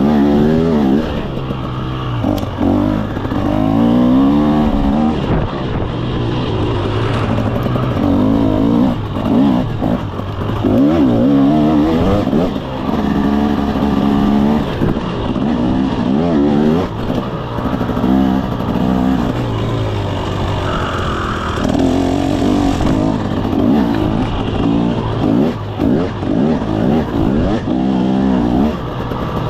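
2024 KTM 300 SX two-stroke single-cylinder engine being ridden, revving up and dropping back over and over, its pitch rising and falling every second or two.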